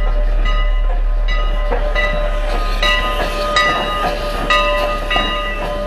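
Steam locomotive's bell ringing steadily, about one stroke every three-quarters of a second, over a low rumble from the locomotive.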